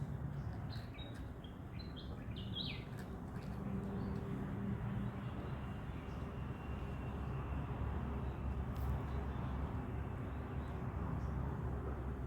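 Small birds chirping a few quick times in the first three seconds, over a steady low outdoor rumble that goes on throughout.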